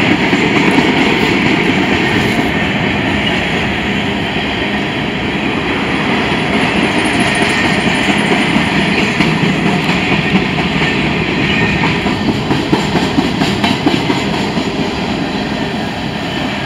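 Freight train of covered grain hopper cars rolling past: a steady rumble and rush of steel wheels on the rails, with the clack of wheels over rail joints growing sharper in the second half.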